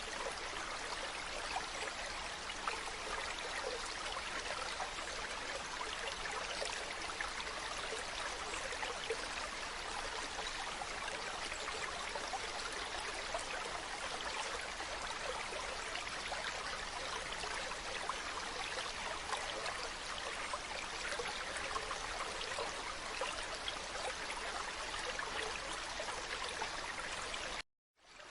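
Mountain stream running over rocks: a steady, even rush of flowing water. It breaks off into silence for about half a second near the end, then resumes.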